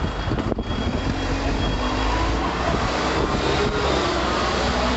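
Steady rumble and noise of passing vehicle traffic. A reversing beeper sounds in short high beeps during the first two seconds.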